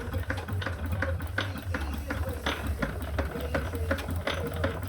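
3.5-inch scale twin-cylinder live-steam traction engine running steadily. Short regular beats come about three a second over a continuous low hum.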